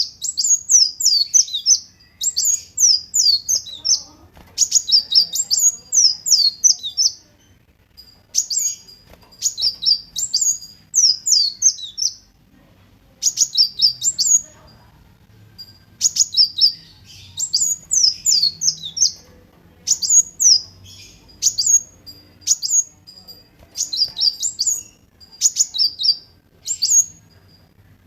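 Kolibri wulung, a sunbird, singing: rapid, high, sharp chirping phrases in bursts of one to three seconds, broken by short pauses.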